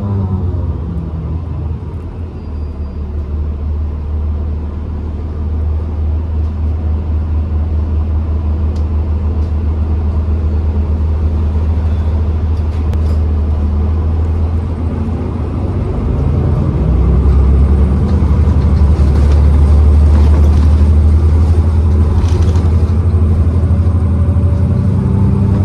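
Diesel-electric hybrid bus (New Flyer XDE40) running under way: a steady low engine-and-drivetrain drone that grows louder and deeper about two-thirds of the way through. A whining tone falls away at the start and comes back near the end, the winding sound this bus is known for.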